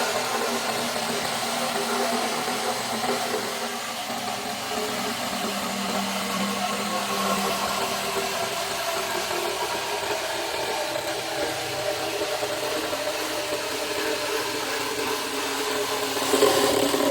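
Exhaust fan running steadily, its motor humming under a continuous rush of air.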